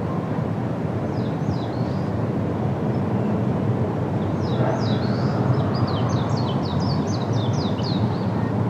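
Wind blowing steadily through trees with a low rumble, while a small songbird chirps briefly about a second in and then gives a fast run of high, downward-slurred chirps, several a second, from about halfway to near the end.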